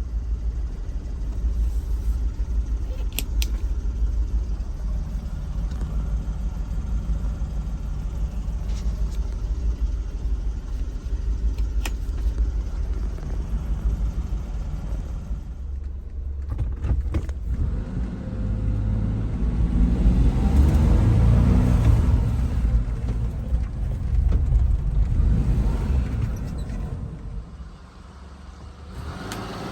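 Small kei truck engine and road noise while driving: a steady low rumble that swells louder for several seconds past the middle, then drops away near the end.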